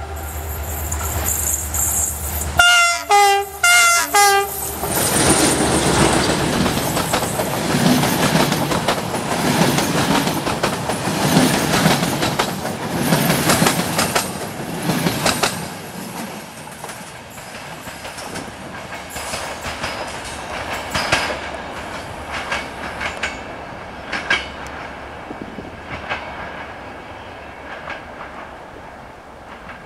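A diesel locomotive sounds its horn in three or four short blasts about three seconds in, then passes at speed hauling a long train of passenger coaches: engine rumble and a rapid clickety-clack of wheels over the rail joints, trailing off as the last coaches go by and fading away near the end.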